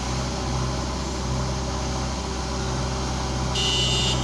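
Heavy diesel engine running steadily at low revs, with a short high-pitched tone of about half a second near the end.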